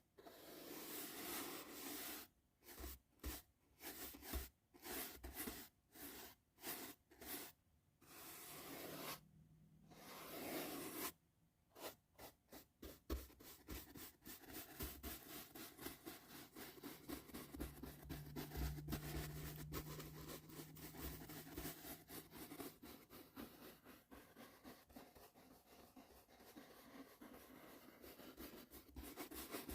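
Soft brush strokes for ASMR brushing, close and faint. Separate slow strokes come first, then after a short lull a long run of quick strokes, several a second.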